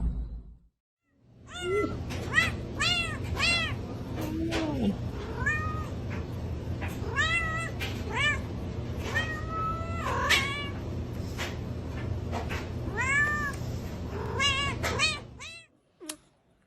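Domestic cat meowing over and over, in short rising-and-falling meows that come in quick runs, over a steady low hum. It stops just before the end.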